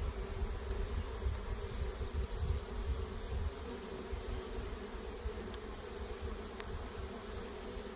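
Honeybees buzzing around an open hive, a steady hum. About a second in there is a brief, rapid, high-pitched trill.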